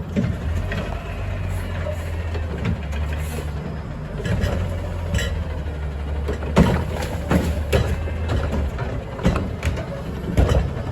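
A front-load garbage truck's diesel engine running steadily, with a series of sharp metallic bangs and clanks over it that are loudest in the second half. The engine drone stops about three-quarters of the way through.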